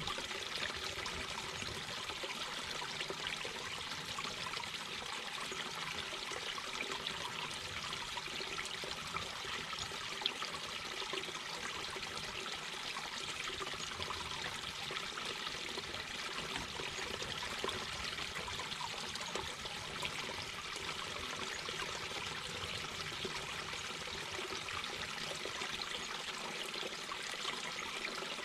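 Mountain brook babbling: shallow water running and splashing over rocks in a steady, even rush.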